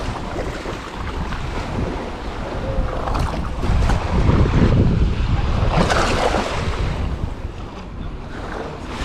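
Wind buffeting the microphone over the wash of small sea waves, with louder gusts or surges in the middle.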